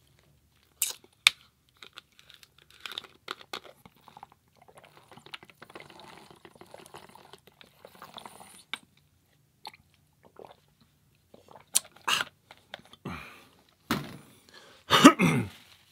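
A person eating a burger and crinkle-cut fries: close-miked chewing and crunching, broken by sharp mouth clicks and smacks. The loudest wet mouth sound comes near the end.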